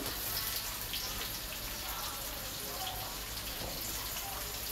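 Lemongrass and garlic sizzling in hot annatto oil in a wok: a steady frying hiss.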